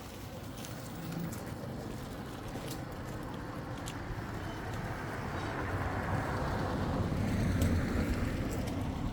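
An engine running, growing steadily louder and loudest near the end, with a few scattered clicks and knocks.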